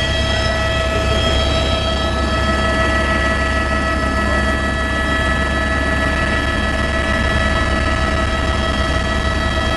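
Helicopter turbine engine and rotor running steadily, heard from inside the cabin: a constant low drone with a steady high-pitched whine over it.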